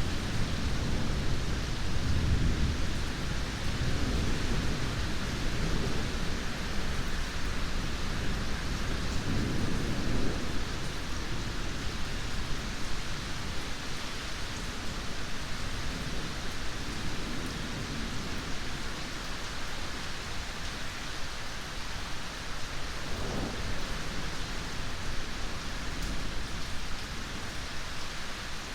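Steady heavy rain with low rolling thunder that rumbles through the first ten seconds or so and then fades, leaving mostly the even hiss of rain with a faint rumble again later.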